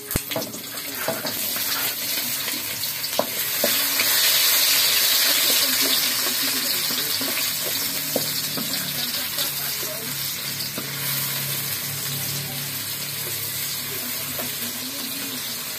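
Chopped tomato, red chilli, shallot and garlic sizzling in hot vegetable oil in a wok, with a spatula clicking and scraping against the pan as they are stirred. The sizzle builds as the ingredients go in and is loudest about four to six seconds in.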